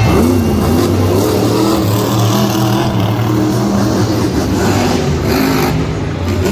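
Monster trucks' engines running hard during a race, their pitch wavering up and down as the throttle changes.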